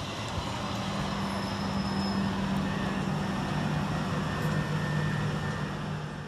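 Southern Class 377 Electrostar electric multiple unit running at the station, a steady electric hum with fainter higher whines over the running noise, fading near the end.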